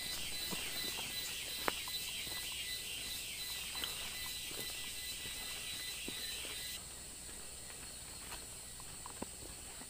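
Rainforest insect chorus: a steady high buzzing with a shrill pulsing tone, which quietens suddenly about seven seconds in. A few faint clicks and snaps are heard beneath it.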